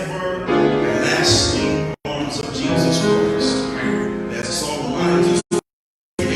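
Church music: singing with long held notes over instrumental accompaniment. The sound drops out completely twice, very briefly about two seconds in and for most of a second near the end.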